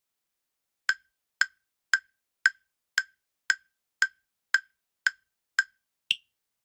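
Countdown-timer sound effect ticking: eleven short, woody clicks about two a second, the last one higher in pitch.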